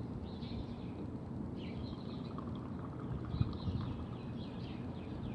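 Small birds chirping, many short quick calls again and again, over a low steady rumble.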